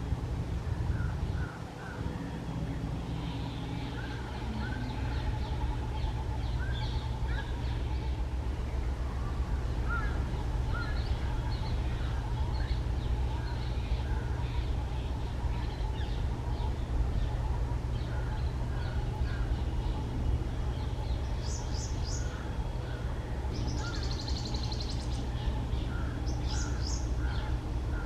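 Many short bird chirps and calls scattered throughout, with a few brighter, higher bursts of calls near the end, over a steady low rumble.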